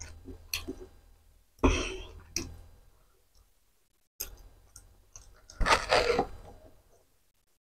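Close-miked eating sounds: a mouthful of spicy macaroni with raw capsicum pieces being chewed and crunched in separate bursts, the loudest and longest about six seconds in. The sound stops abruptly near the end.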